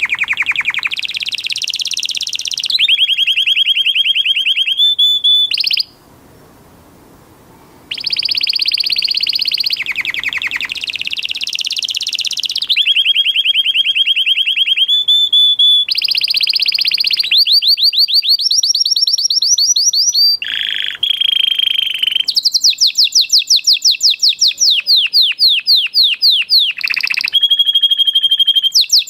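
Pet parrot making rapid, high-pitched trilling chirps in long bursts, with a break of about two seconds some six seconds in.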